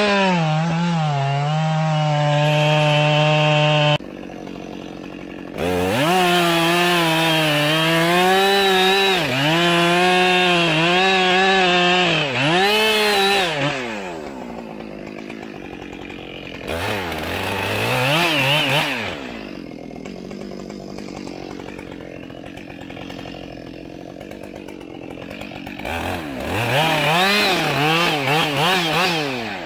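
Chainsaw running at full throttle in cutting bursts, its pitch wavering as it works under load, then falling away to a quieter idle between cuts. It revs up again twice later on.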